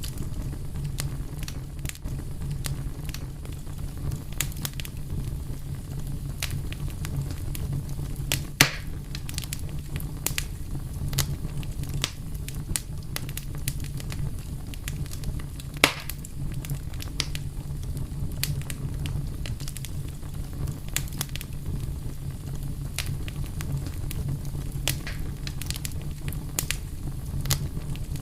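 Wood fire burning steadily with a low rumble and frequent sharp crackles, two louder pops standing out.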